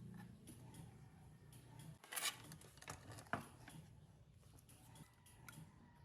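Quiet workshop handling sounds: scattered light clicks and taps of small hard parts, with two sharper clicks a little after two seconds and about three and a half seconds in, over a low hum.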